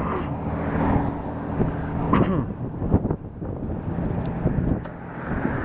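A motor vehicle's engine running steadily, with a few sharp clicks about two and three seconds in.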